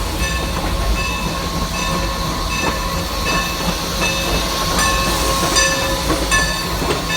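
Train pulling out slowly: a steady low running rumble, with a bell-like tone ringing about once every three-quarters of a second.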